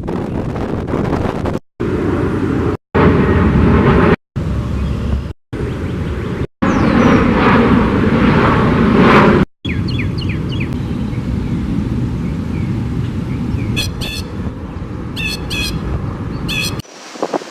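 Steady rushing outdoor noise, broken into several short clips by abrupt cuts. Birds chirp in quick repeated bursts in the second half.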